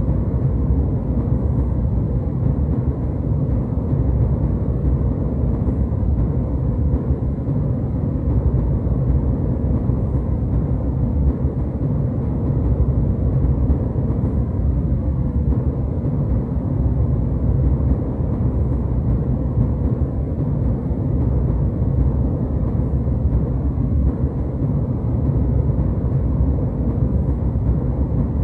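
Jet airliner cabin noise: a steady, even low rumble with no changes.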